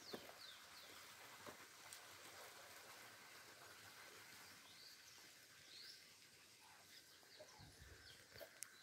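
Near silence with faint outdoor hiss and a few short high bird chirps, a cluster at the start and another about six seconds in.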